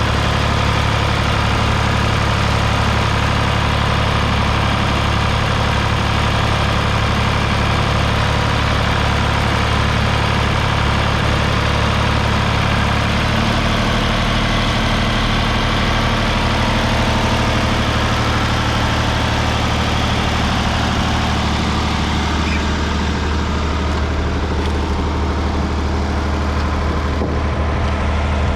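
Ford 3000 tractor's 2.9-litre three-cylinder diesel engine running steadily, its note shifting slightly about halfway through.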